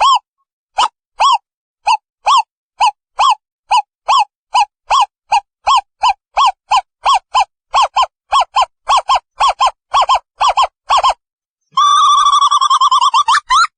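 Owl calling: a series of short hoots that speed up from about two to about four a second, then run together into a fast trill near the end.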